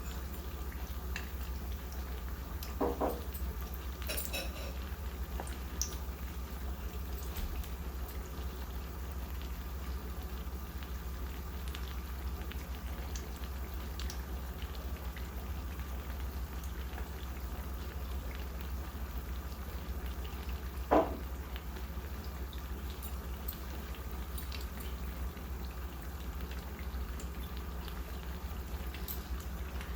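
Spring rolls deep-frying in hot oil, a steady bubbling sizzle with fine crackles over a constant low hum. A sharp knock about 21 seconds in and a smaller one near the start.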